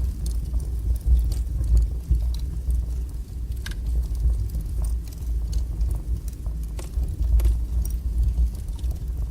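Wood fire burning in a fireplace: a steady low rumble of the flames with scattered sharp crackles and pops at irregular moments.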